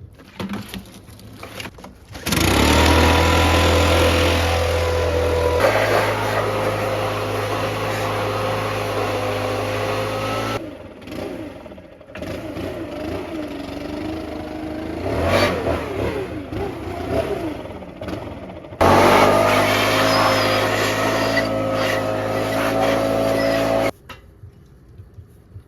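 A motor-driven power tool runs in three bursts, each starting and cutting off abruptly. Its pitch holds steady in the first and last bursts and wavers under changing load in the middle one.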